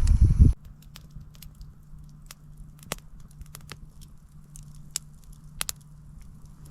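Campfire crackling: scattered sharp pops and snaps over a faint low hum. A louder low rumbling noise cuts off abruptly about half a second in.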